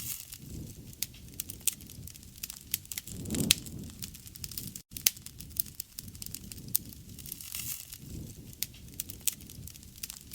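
Wood fire burning: the wood crackles and pops in frequent sharp snaps over a low rush of flames that swells a few times. The sound cuts out for an instant about halfway through.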